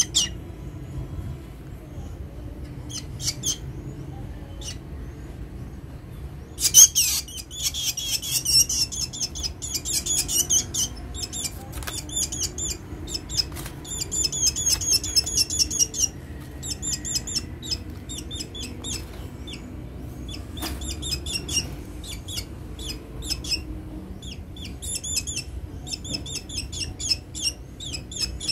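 A hungry black bird chirping, short high-pitched calls repeated in quick runs. The loudest and densest run starts about seven seconds in, and sparser chirps follow.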